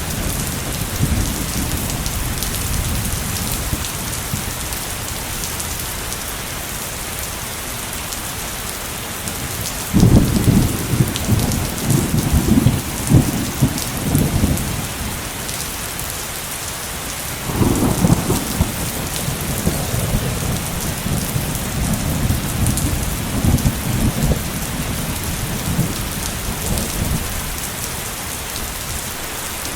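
Steady heavy rain pattering on surfaces, with thunder rumbling: one long peal about a third of the way in and another just past halfway, each several seconds long.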